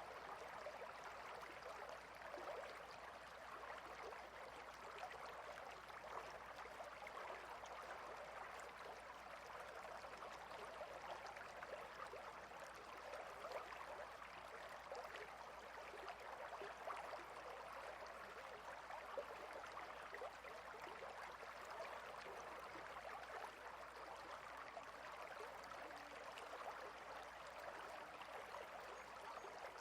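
Shallow, clear river flowing over rocks, a faint, steady babble of water.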